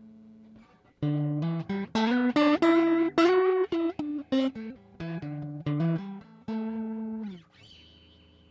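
Electric guitar played through a JHS 3 Series Flanger pedal: a held note fades out, then a phrase of quick single notes climbs and falls back, ending on a held note that is cut off near the end.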